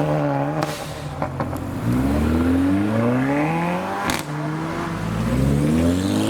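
A car accelerating hard, its engine note climbing twice, broken by a sharp crack about four seconds in.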